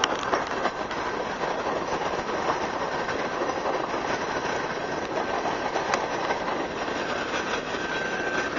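Freight train of open-top coal cars rolling past: a steady rumble and clatter of steel wheels on the rails, with a couple of sharp clicks.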